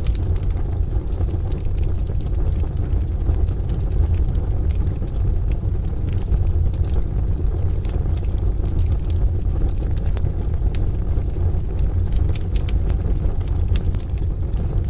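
Steady low rumble of rain and distant thunder, with the sharp, scattered crackles of a wood fire popping now and then.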